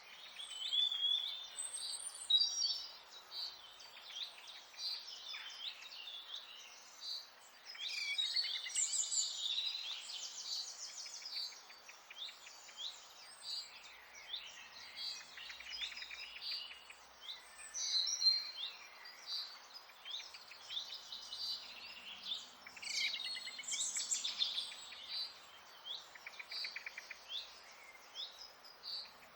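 Several songbirds singing at once: a steady stream of overlapping chirps and whistles, with a few rapid trills, over a faint background hiss.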